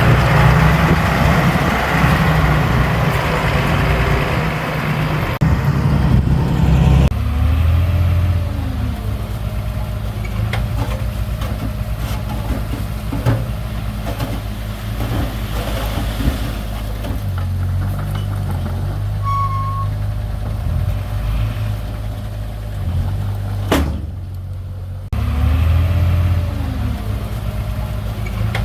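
Heavy diesel engine of earth-moving machinery running steadily. It is louder and noisier for the first several seconds, then settles to a steady lower run, with an abrupt change a few seconds before the end.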